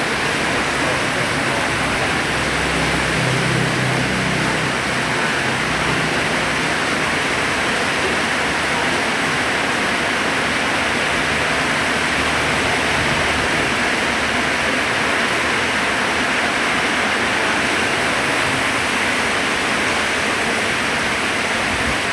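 Heavy rain pouring down, a loud, steady, even hiss that does not let up.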